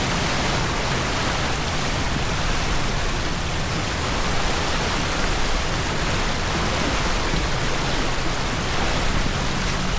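Steady rushing of wind and water past a sailing boat under way, with wind buffeting the microphone in an uneven low rumble.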